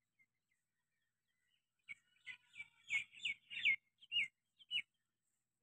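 A bird calling: a quick run of about eight short chirps, each sliding down in pitch, starting about two seconds in.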